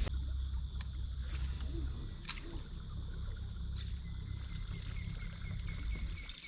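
Insects droning steadily at a high, unchanging pitch over a low rumble, with a few sharp clicks. From the middle on, faint short chirps repeat at an even pace.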